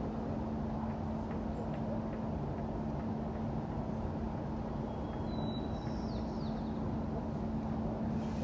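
Steady city street ambience: a constant rumble of traffic with a steady low hum. A brief high chirp comes about five and a half seconds in.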